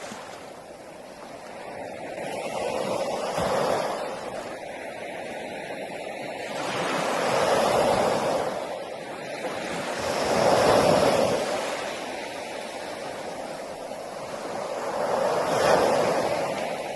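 Sea waves breaking on a beach: the rushing surf swells and fades four times, each surge a few seconds long.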